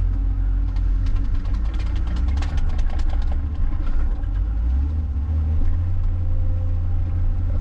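John Deere 544K wheel loader's diesel engine running steadily under the snow-clearing work, with a patch of light clicking and rattling about two to three seconds in.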